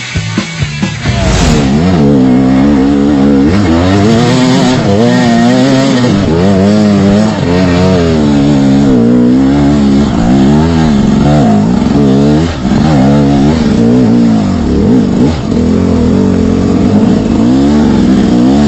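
Off-road motorcycle engine revved up and down again and again, the throttle opened and closed in quick surges as the bike works through slippery mud. Rock music plays for about the first second, then cuts off.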